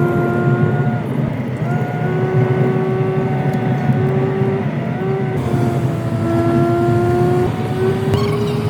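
Car driving: a loud, steady rumble with a whining tone that shifts slightly in pitch several times as the engine speed changes.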